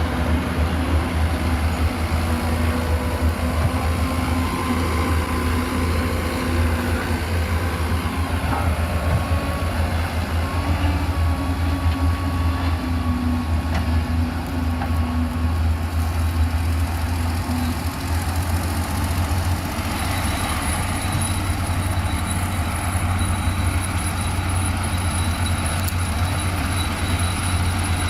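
Heavy construction machinery running: a steady, deep engine drone with a faint whine that shifts in pitch during the first half.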